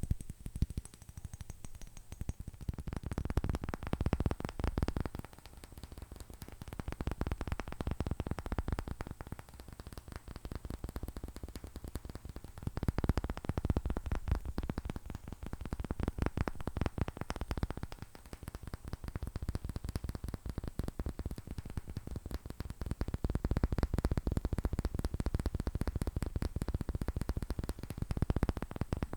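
Fingernails tapping fast on hard objects: a dense run of clicks that swells louder and softer in waves.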